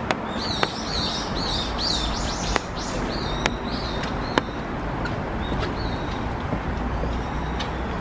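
A small songbird chirping a rapid series of short, repeated notes, busiest in the first half and thinning out later. Underneath runs a steady hiss and low rumble, broken by a few sharp ticks.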